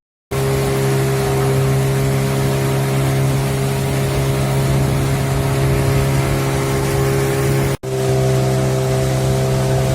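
Motorboat engine running at a steady pitch under a rushing noise of wind and water. It cuts out for an instant about three-quarters of the way through, then carries on unchanged.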